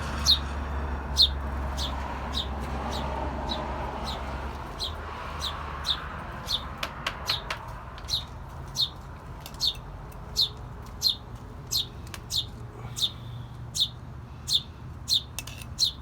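Sparrow chirping over and over, short single chirps that each drop in pitch, roughly one every second or less.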